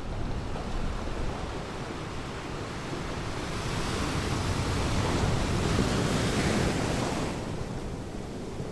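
Ocean surf on a beach: a wave breaks and washes up the shore for a few seconds in the middle, over a steady low rumble of surf and wind.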